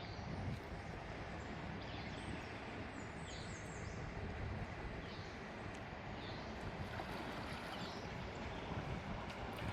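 Steady rush of flowing river water, with a bird chirping in short high calls now and then above it.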